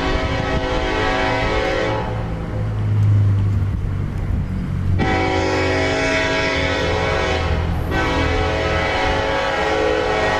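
Diesel freight locomotive sounding its multi-tone air horn: one blast ends about two seconds in, the engine's low rumble swells in the gap, then a long blast and another right after it. The locomotive's diesel engine rumbles underneath throughout.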